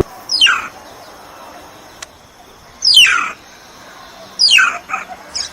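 A bird calling three times, each call a short, steeply falling note, about two seconds apart.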